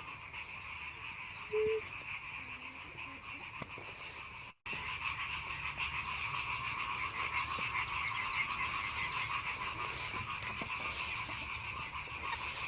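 Steady, dense chorus of small animals calling, in two pitch bands, with a brief break about four and a half seconds in, after which it is louder.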